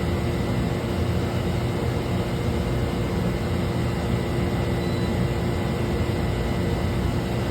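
Steady drone of running machinery: an even rushing noise with a constant hum tone, unchanging throughout.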